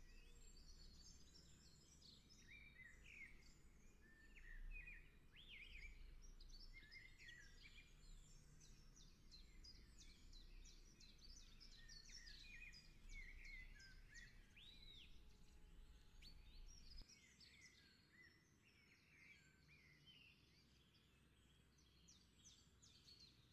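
Faint birdsong: many short chirps and trills from birds. Under it is a low rumble that stops about two-thirds of the way through.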